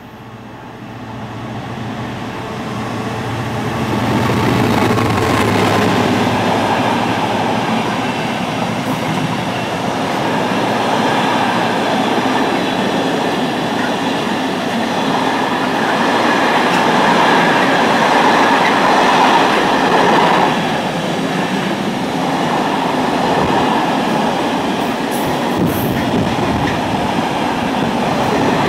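A Freightliner Class 66 diesel locomotive approaches and passes, its engine drone growing louder over the first few seconds. A long intermodal container train follows with a steady rumble and clatter of wagon wheels on the rails.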